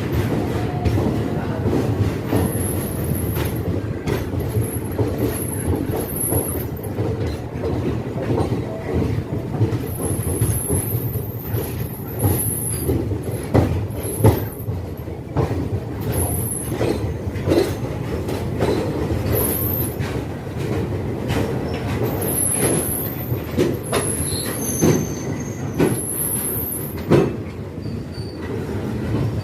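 Express train running, heard from on board: a steady rumble of the wheels on the rails with frequent clicks and knocks, and short high-pitched wheel squeals every second or two.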